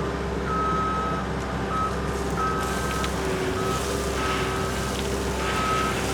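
Heavy equipment's engine running steadily under a repeated high backup-alarm beep, about one beep a second, while a load of asphalt millings is dumped.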